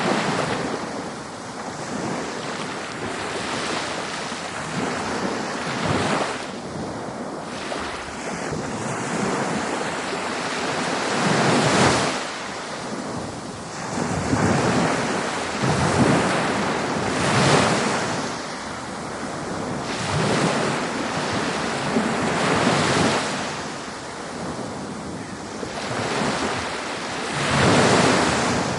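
Ocean surf breaking on a beach: a continuous wash of waves that swells and falls back every few seconds, with the loudest breakers about twelve seconds in and near the end.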